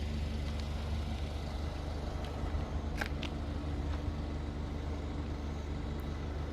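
Car engine running at low speed, a steady low hum heard from inside the cabin, with a couple of faint ticks about three seconds in.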